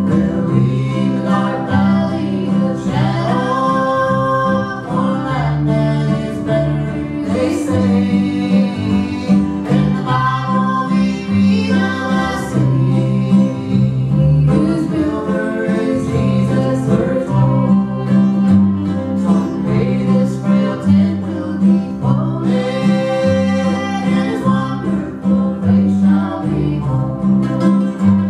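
Old-time string band playing a song: fiddle, mandolin, guitar and bass, with a stepping bass line and sung vocals over the picking and bowing.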